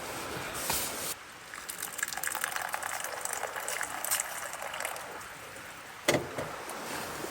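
Water pouring, with a run of fine splashy crackles, then a single sharp knock about six seconds in.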